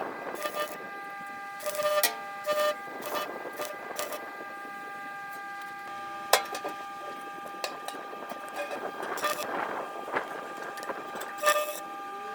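Power tool running steadily with a whine of several held tones, broken by repeated short bursts of harsher noise, as sheet-metal cladding is worked.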